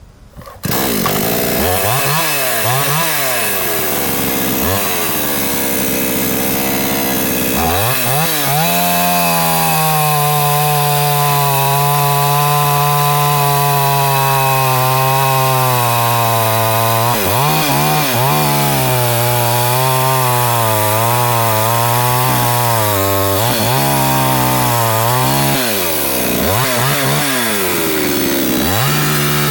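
Two-stroke gasoline chainsaw running loud, its engine speed rising and falling again and again, with a stretch of several seconds held at high speed in the middle.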